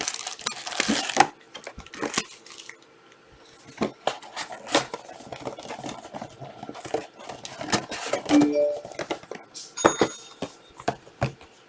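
Plastic wrapping on trading card boxes and packs crinkling and tearing, with irregular clicks and taps of cardboard being handled.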